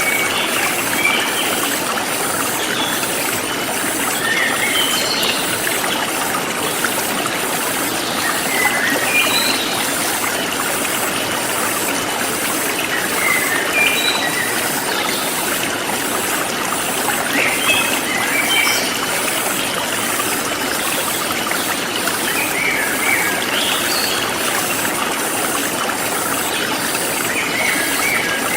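Forest stream flowing steadily, with small birds giving short chirps every few seconds and a high insect call pulsing about twice a second.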